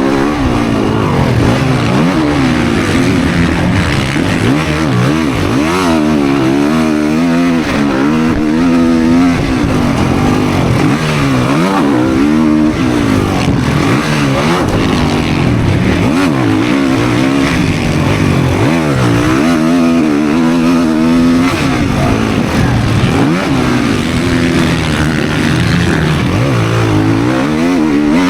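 Dirt bike engine revving hard on a motocross track, its pitch climbing and dropping over and over every second or two as the rider works the throttle and gears.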